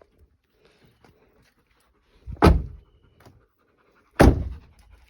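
Car doors being shut: two heavy thuds a little under two seconds apart.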